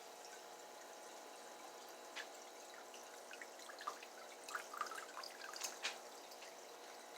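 Aquarium water dripping and trickling: scattered small drips and plinks, bunched together in the middle, over a faint steady hum.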